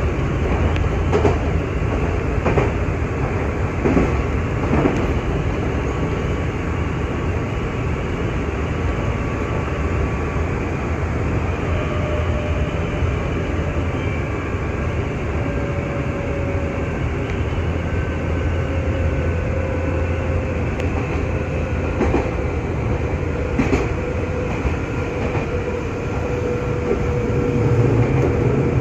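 Nankai 6000 series stainless-steel electric train running at speed, heard from inside the car: a steady rumble of wheels on rail, with a few sharp clacks over rail joints near the start and again past the twenty-second mark, and a faint whine that drifts slightly lower in pitch in the second half.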